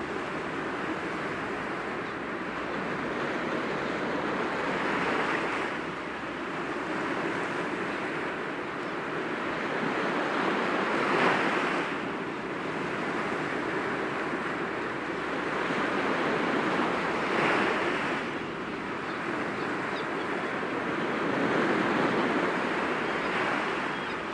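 Sea waves breaking gently against rocks: a steady wash of surf that swells four times, about every six seconds, as each wave comes in.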